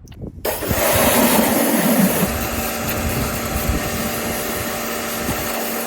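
Electric pressure washer running, its motor humming under the hiss of the water jet; it starts abruptly about half a second in and runs steadily.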